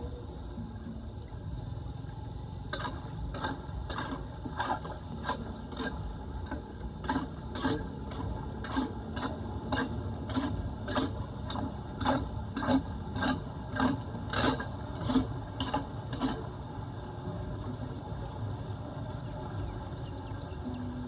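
A hand tool working at a clogged street drain grate: a regular run of sharp strokes, about two a second, starting about three seconds in and stopping about three-quarters of the way through, over a steady low rushing noise.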